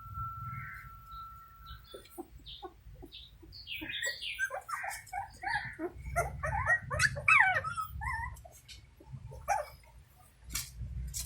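Puppies whimpering and squealing in a rapid string of short high cries, crowding together a little past the middle.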